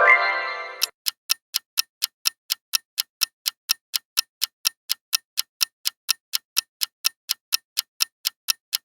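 Countdown timer sound effect: fast, even clock ticking at about four to five ticks a second. It opens with a short rising tone that lasts under a second.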